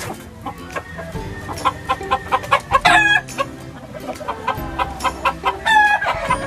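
Gamefowl roosters crowing and clucking, the loudest crows about three seconds in and again near the end, over background music.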